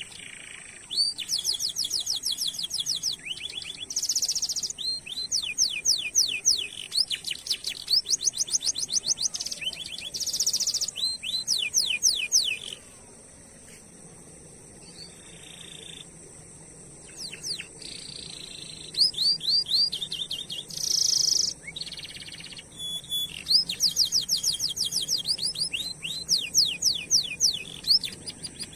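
Domestic canary singing a long rolling song: fast trains of repeated sweeping whistled notes, broken by a few seconds of quieter, sparser notes past the middle before the rolls pick up again.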